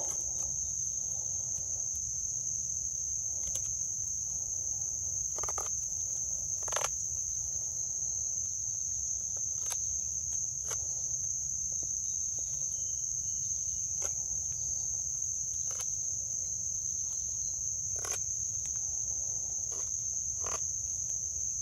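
Steady high-pitched drone of an insect chorus, with scattered light clicks and scrapes of a thin knife blade carving and sharpening the points of a wooden frog gig every second or two.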